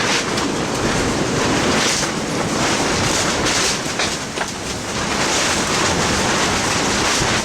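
Strong storm wind gusting and buffeting the microphone, a loud rushing roar that swells and eases in surges.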